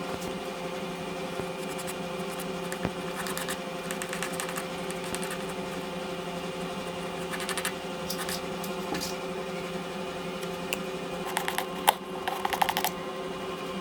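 Electric power sander running steadily on a wooden boat hull, a constant motor hum with scattered scrapes and knocks, busier near the end.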